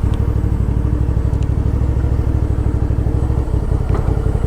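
Suzuki V-Strom 650 XT's 645 cc V-twin engine running steadily at low revs, with an even pulsing beat.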